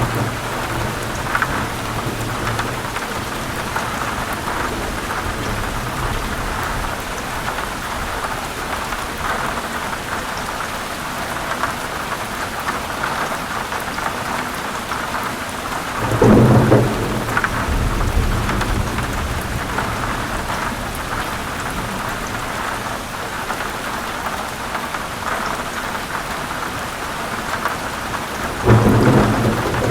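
Heavy rain falling steadily, with thunder rumbling twice: once about halfway through and again near the end.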